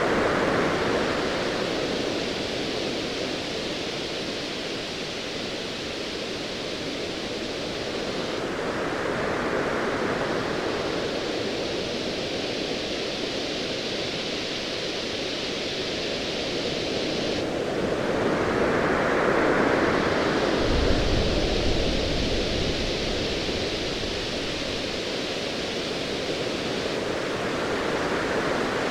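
Ocean waves rolling in and breaking over a steady hiss, a swell about every ten seconds. A low, distant rumble of thunder sets in about two-thirds of the way through and fades a few seconds later.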